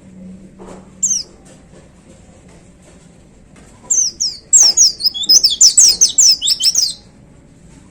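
White-eye (pleci) singing: a brief high call about a second in, then about three seconds of rapid, loud, high-pitched notes, each sliding downward.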